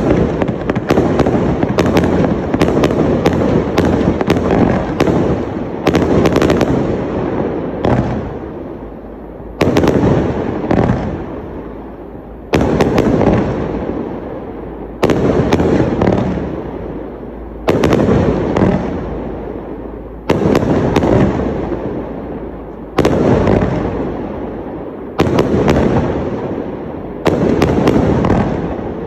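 Fireworks display cakes firing. For the first seven seconds or so there are quick volleys of bangs, then single loud bangs come about every two and a half seconds, each followed by a fading rumble and crackle.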